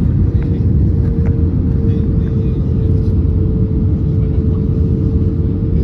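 Steady cabin noise inside an Airbus A321neo airliner: a loud low rumble with a steady droning tone running through it.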